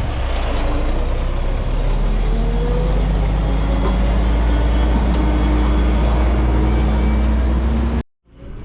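Diesel engine of heavy earthmoving equipment running steadily under load, a loud low drone with a slight rise in pitch a couple of seconds in. Near the end the sound cuts out abruptly for a moment, then resumes.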